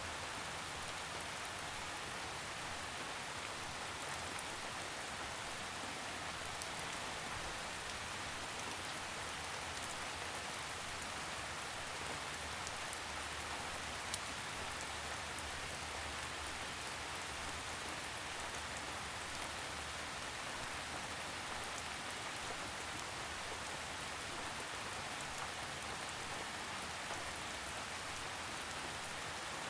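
Steady rainfall pattering on leaves and ground, an even hiss of drops without thunder.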